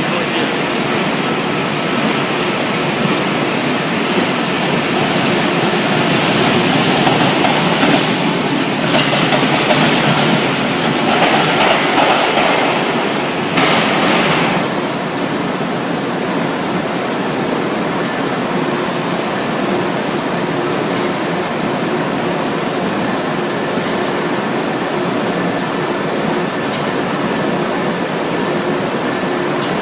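Induction billet heating furnace running: a steady high-pitched whine over loud, even machine noise. A louder rushing noise swells in over the first half and cuts off about halfway through.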